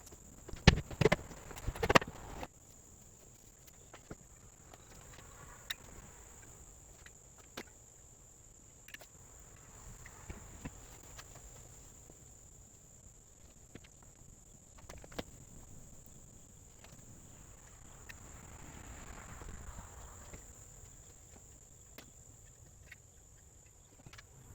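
A quick run of sharp knocks in the first two seconds or so, then occasional faint taps and clicks, over a steady high-pitched whine.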